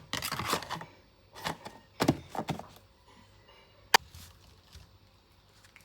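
Household handling sounds: a few groups of short knocks and rustles, then one sharp click about four seconds in.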